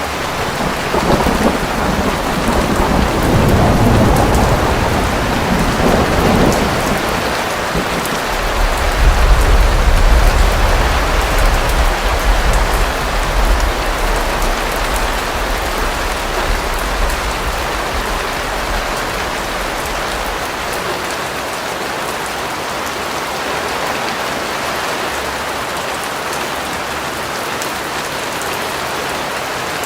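Steady heavy rain hissing, with a long rolling thunder rumble that builds over the first few seconds, is loudest about ten seconds in, and fades out by about twenty seconds, leaving the rain alone.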